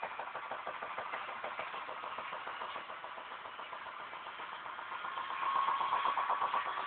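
Washing machine in its spin cycle, giving a fast, even knocking with the drum's turning, which gets louder and picks up a whine about five and a half seconds in. The knock is put down to the drum's shock absorbers shifting on their mounting-bolt bushings.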